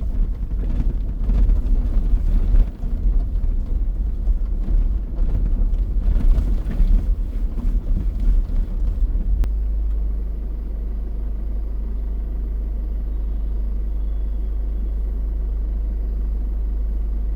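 Vehicle driving over a rough off-road track, an uneven rumble broken by frequent jolts. About halfway through there is a sharp click, and the sound settles into a steady low hum.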